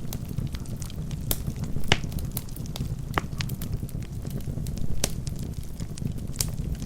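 Wood fire burning in a fireplace: a steady low rumble of flames with irregular sharp crackles and pops from the burning logs, two of them louder, about two and five seconds in.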